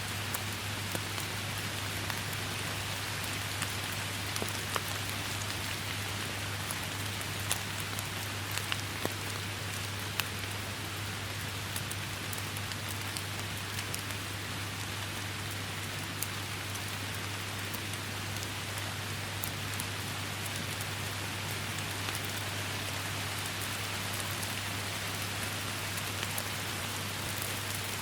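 Steady rain falling, an even hiss with the sharp ticks of single drops striking close by scattered all through.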